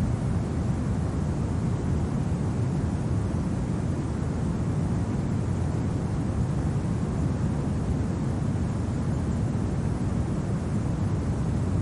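Steady winter wind ambience: an even, low rushing noise with no separate events.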